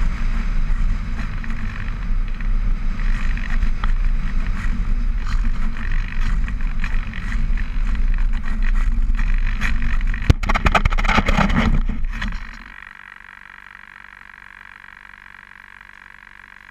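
A loud, rough rumbling noise with a cluster of sharp clicks near its end. It cuts off about twelve seconds in, leaving a quieter, steady chorus of frogs croaking.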